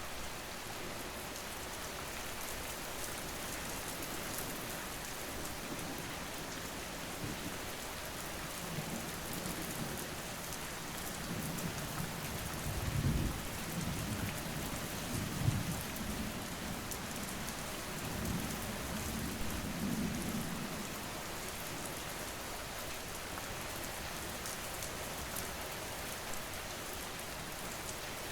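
Steady rain falling, with low rolls of thunder rumbling through the middle stretch, loudest about halfway through.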